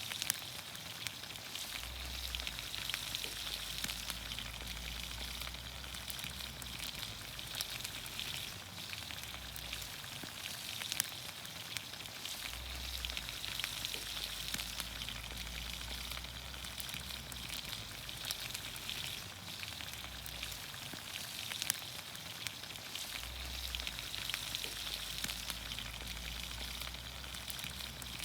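Vegetables in olive oil sizzling in a pan over a campfire: a steady hiss scattered with small crackles and pops.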